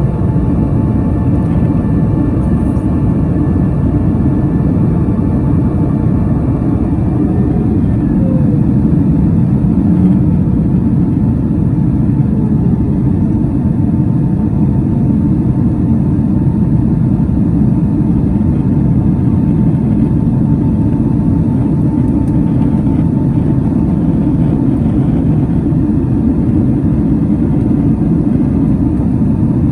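Boeing 767 cabin noise with the jet engines under power: a loud, steady low rumble of engines and airflow, with faint steady engine tones above it.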